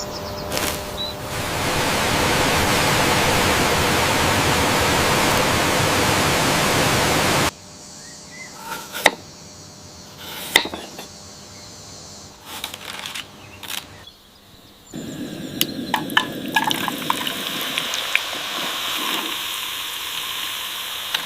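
Kitchen sounds of potato chips being made: a steady rush of running water that cuts off suddenly after about seven seconds, then scattered sharp clicks and knocks, then a steady frying hiss with crackles over the last six seconds.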